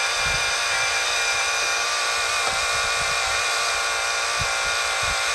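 Electric-driven hydraulic pump of an RC4WD Earth Digger 4200XL 1/12-scale excavator running with a steady, a little bit loud whine while it builds about 20 bar of pressure.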